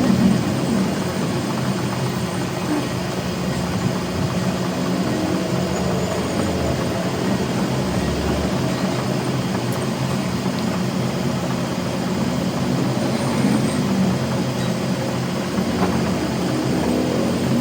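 A machine's motor running steadily with a low hum and a noisy whirr over it.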